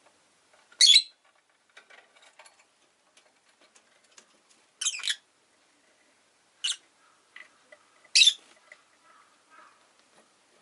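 Rosy-faced lovebird giving four short, shrill calls a couple of seconds apart, with faint soft chattering in between.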